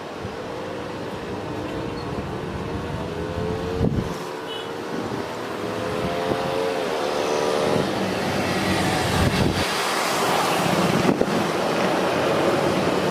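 Jet airliner's engines passing close on landing approach. A whine slowly climbs in pitch, then drops about seven seconds in, while the broad engine roar builds to its loudest in the second half.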